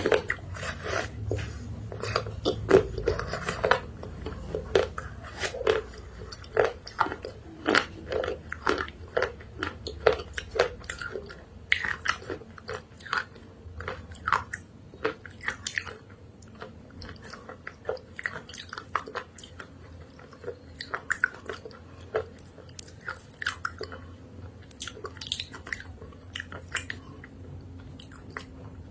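Close-up chewing of chalk and clay paste: crunchy bites and sticky mouth clicks, thick and fast at first and thinning out about halfway through.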